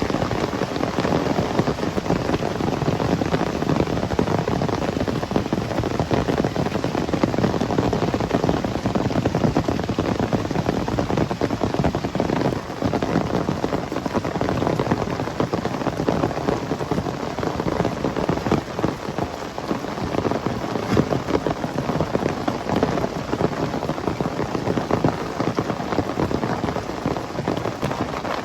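Heavy rain pouring steadily, a dense patter of drops striking a surface.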